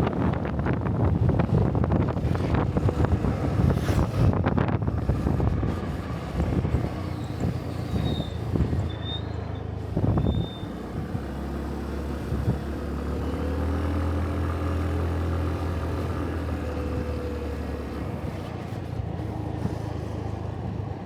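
Motorbike engine running on the road, with wind buffeting the microphone hard for the first five seconds or so before the sound settles into a steadier hum.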